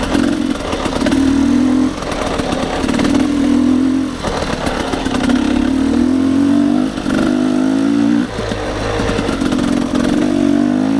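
Dirt bike engine running under load on a climb, the throttle opened and eased off in surges so the engine note rises and falls, with short dips between.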